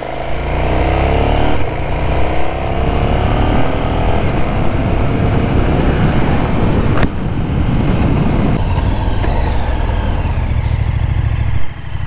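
KTM 1290 Super Duke R's V-twin through an SC Project SC1-R carbon-fibre slip-on exhaust, under easy acceleration up through the gears. The engine note rises, breaks at a gear change about a second and a half in, climbs again, then settles into a steadier drone, with another shift near the end.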